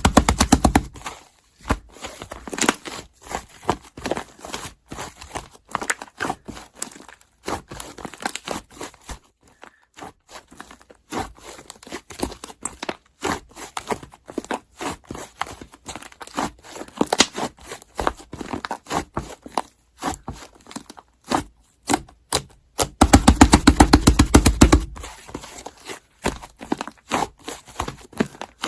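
Slime being squished and worked by hand, a steady run of small sticky clicks and crackling pops. Toward the end it turns into a louder, very fast burst of clicking for about two seconds.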